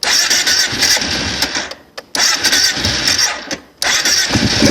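Kawasaki Prairie 650 ATV's V-twin engine being cranked on a choked cold start after months of sitting. It cranks in three bursts with short breaks, then catches near the end and settles into running.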